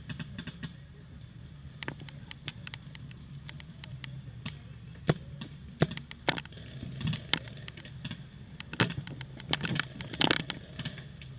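Paintball markers firing: scattered, irregular sharp pops and cracks, some single and some in quick clusters, a few louder and closer than the rest.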